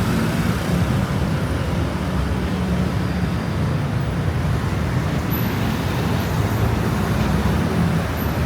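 Heavy road traffic: a steady, continuous low rumble of car and bus engines running past.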